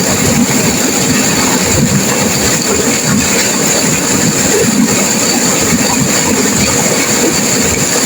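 Turbulent river water rushing and crashing in a steady, loud roar.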